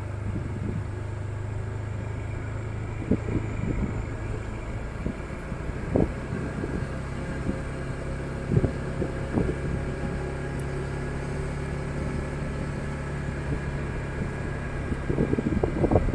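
Motorcycle engine running steadily at low, even revs, with wind noise on the microphone. Scattered short knocks and thumps come and go, most around the middle and near the end.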